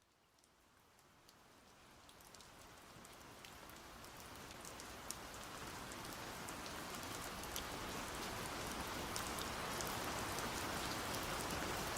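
Rain falling: a steady hiss with scattered sharp drop clicks, fading in slowly from silence and growing louder throughout.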